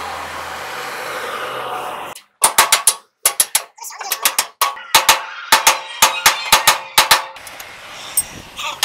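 A steady hiss with a low hum, cut off after about two seconds by a long run of sharp, loud knocks in quick irregular clusters, a few a second, fading to fainter ticks near the end.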